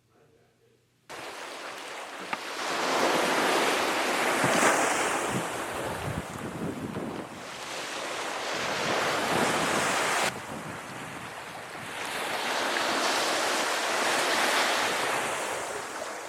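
Waves washing ashore, swelling and easing every few seconds, with wind buffeting the microphone. It starts suddenly about a second in.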